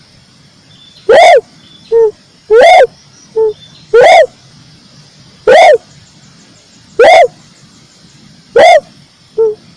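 Red turtle dove cooing: a loud, low note that rises and falls in pitch, repeated about every one and a half seconds, with a shorter, softer note between some of them.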